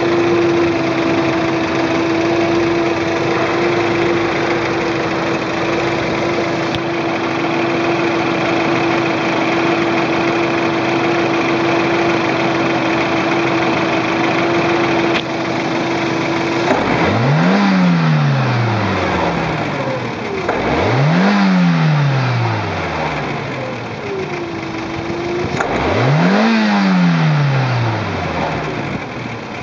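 Toyota AE86's 4A-GEU 1.6-litre DOHC inline-four running, held at a steady engine speed, then revved three times a few seconds apart, each rev climbing and falling back.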